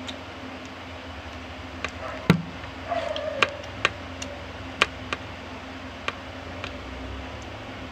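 Someone eating rice and chicken curry by hand off a plate: scattered sharp clicks and mouth sounds, with one louder knock a little over two seconds in, over a steady low hum.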